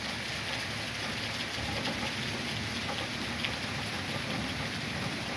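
Thunderstorm rain falling steadily, an even hiss with no break.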